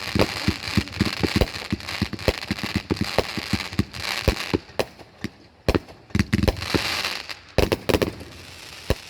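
Consumer fireworks going off in rapid pops and crackling, dense for about five seconds. After a short lull, a second cluster of bangs and crackle comes about six to eight seconds in.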